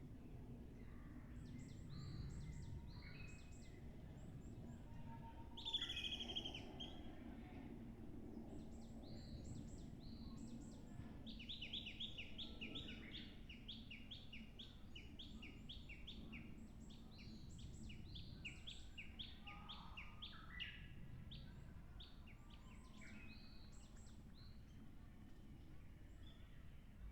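Small songbirds calling: scattered short, high call notes throughout, a louder falling call about six seconds in, and a rapid run of repeated notes from about eleven to eighteen seconds in, over a faint low steady hum.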